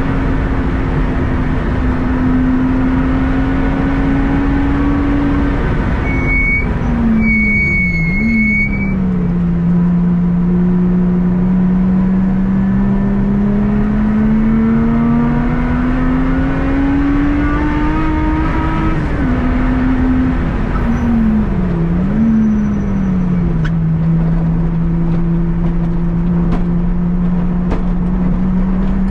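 Lotus Exige engine running at light throttle on a cruise lap. The revs climb slowly, then twice dip sharply with a quick blip and settle lower, about seven and twenty-two seconds in. A brief high squeal sounds about six to nine seconds in.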